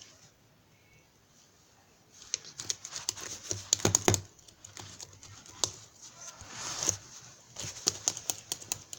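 Irregular clicks and taps mixed with rustling handling noise, starting about two seconds in after near quiet, with a louder cluster of taps around four seconds.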